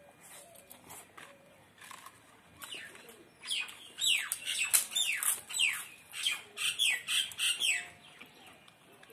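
A bird calling: a quick run of about a dozen sharp notes, each falling in pitch, roughly three a second, starting about three and a half seconds in and stopping near the end.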